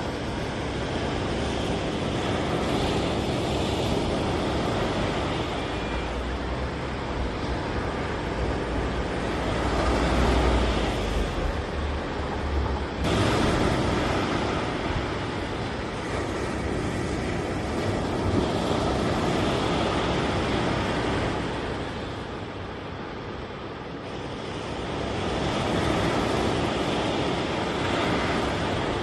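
Ocean surf washing and breaking, swelling and easing in loudness as waves come in, with wind buffeting the microphone into a low rumble for several seconds in the middle.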